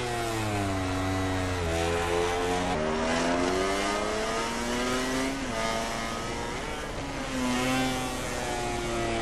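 1000 cc four-cylinder MotoGP race motorcycle engine at high revs. Its note falls over the first couple of seconds, then climbs and drops back in steps as it changes gear.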